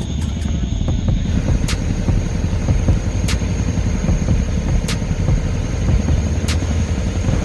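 Loud, steady low rumble of a helicopter running close by during a sling-load hook-up, with a faint click about every second and a half.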